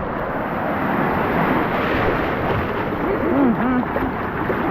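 Steady rush of water with wind noise on the microphone, and faint voices about three seconds in.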